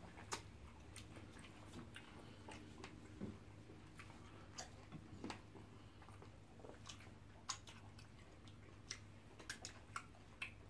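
Faint eating sounds from two people eating soft food with their fingers: scattered, irregular lip smacks and chewing clicks, some from finger licking, over a steady low hum.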